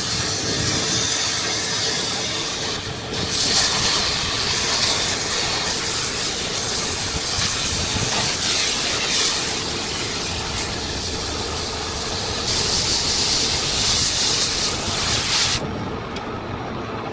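Loud steady hiss of gas or air rushing under pressure, rising and falling in strength, over a steady low hum; the hiss cuts off suddenly near the end.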